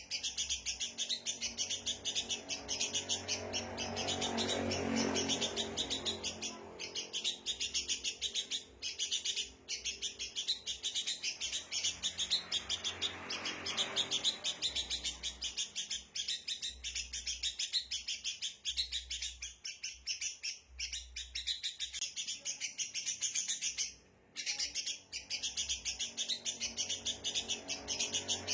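Sooty-headed bulbuls (kutilang) in a noisy, agitated chatter of rapid, unbroken chirps. It is the rowdy calling used as lure audio to draw wild birds in.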